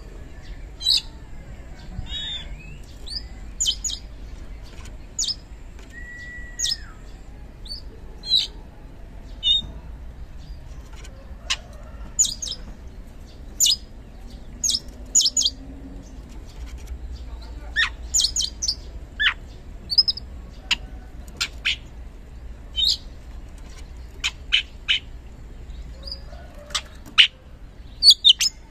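Oriental magpie-robin singing loud, open song as a lure for other kacer: a string of short, sharp, high notes at irregular spacing with pauses between them, and one short curved whistle about six seconds in.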